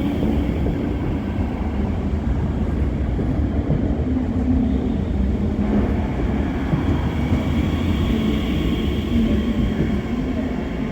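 Train running through a station: a steady low rumble with a humming tone, and a faint higher whine coming in about halfway through.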